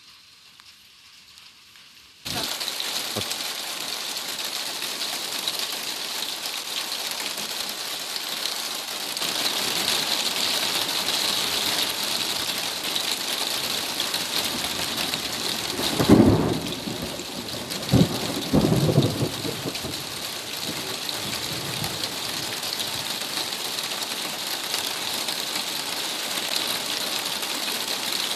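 Heavy thunderstorm rain pouring down steadily, starting suddenly about two seconds in. A few loud, short thunder cracks come about two-thirds of the way through.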